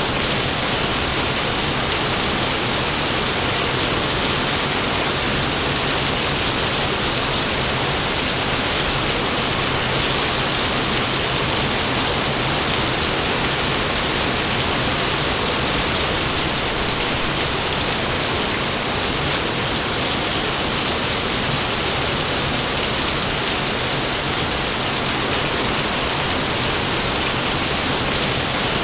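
Heavy rain falling steadily as a dense, even hiss, with no thunder in these seconds.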